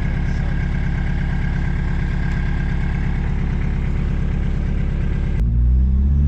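MK2 Volkswagen Jetta 1.6 diesel engine idling with a steady, even clatter, running with its muffler fallen off and sounding no different without it. About five seconds in the sound changes suddenly to a deeper, slightly louder engine note that rises a little in pitch.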